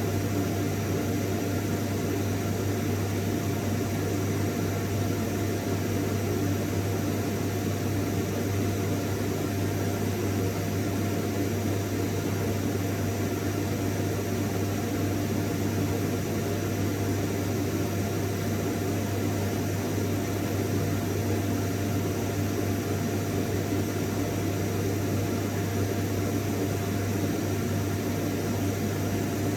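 Vacuum cleaner running steadily: a constant motor hum with a steady whine over an even rush of air.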